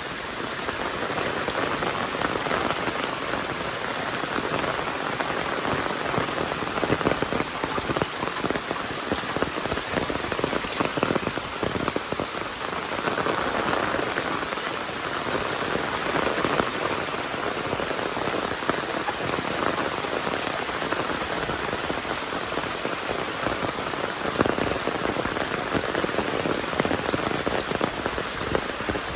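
Steady rain falling on a surface: a dense, even patter of many fine drops.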